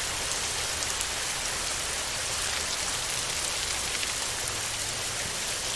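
Steady heavy rain falling on a tin roof: an even hiss with scattered sharp drop ticks.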